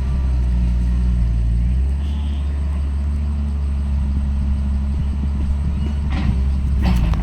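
Heavy diesel earthmoving machine running steadily under work. Its engine note shifts about two seconds in, and a few clanks come near the end.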